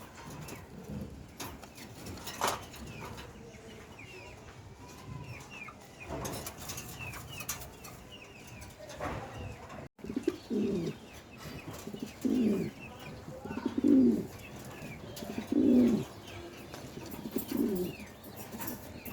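Domestic pigeons cooing: a low, falling coo repeated about every one and a half to two seconds in the second half. Small birds chirp faintly in the background.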